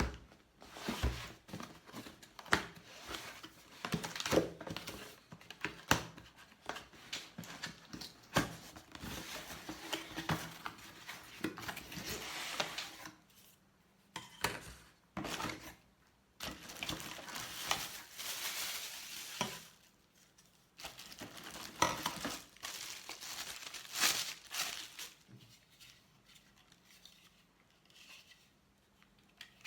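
Irregular clatter and crinkling of small objects being handled: scattered clicks and knocks mixed with rustling, with brief pauses.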